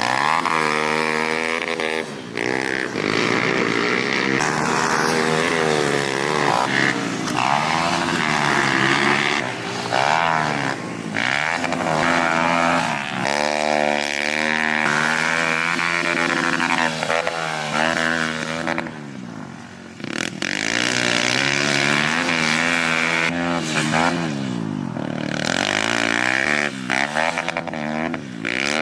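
Pit bike's single-cylinder engine being ridden hard, revving up and dropping back again and again as the throttle is worked and gears change, with brief lulls when the throttle closes.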